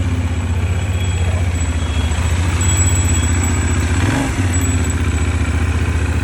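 Benelli 752S motorcycle's parallel-twin engine running steadily, a low, even, rapid pulsing, with a brief change in note about four seconds in.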